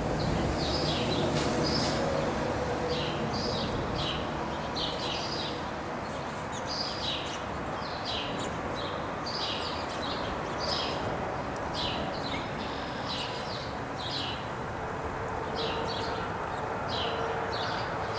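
Small birds chirping over and over, short sharp chirps two or three a second, above a steady low rumble.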